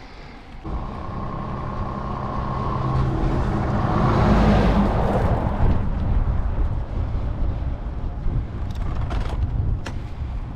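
A motor vehicle going past on the road, its engine and tyre noise coming in suddenly under a second in, loudest about four seconds in, then easing off. A few short clicks sound near the end.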